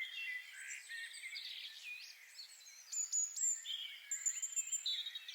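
Several songbirds singing at once: overlapping high chirps, short whistled phrases and quick trills.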